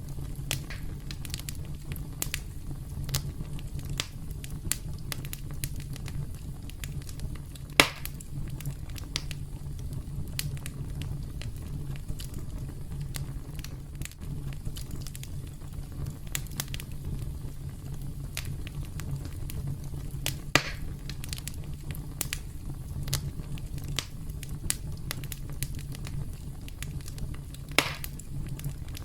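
Campfire crackling: a steady low rumble of burning wood with frequent small pops and snaps, and three louder pops spread through, the first about eight seconds in.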